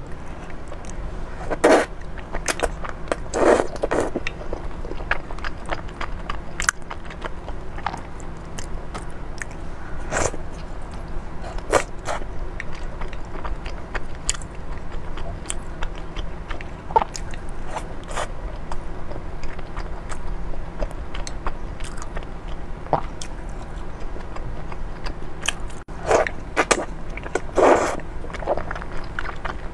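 A person chewing thick, chewy starch noodles (fen haozi) in chilli sauce, with many short wet mouth clicks. A few longer, louder mouth sounds come about two seconds in, near four seconds and near the end.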